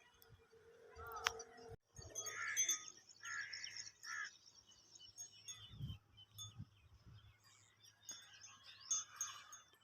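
Several birds calling and chirping over a continuous high-pitched chatter, with the loudest run of calls a couple of seconds in and more near the end. A sharp click about a second in and a few low thuds around the middle.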